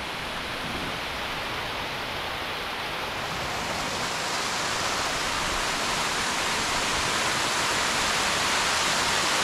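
Waterfall rushing: a steady hiss of falling water that grows gradually louder, with more high hiss coming in after about three seconds.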